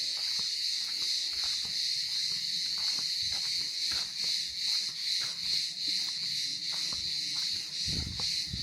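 A chorus of insects buzzing continuously at a high pitch, pulsing a few times a second.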